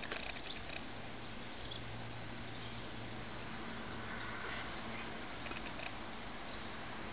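Outdoor garden ambience: a steady background hiss with a few short, high, thin bird calls, the clearest about a second and a half in and others near the middle.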